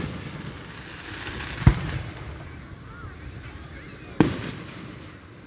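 Aerial fireworks bursting: two loud, sharp booms, about a second and a half in and again about four seconds in, each trailing off in a short rumble.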